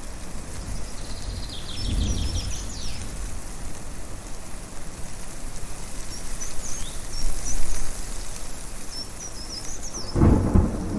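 Thunder rumbling twice, once about two seconds in and again, louder, near the end, over a steady rushing background. Birds chirp in short high calls throughout.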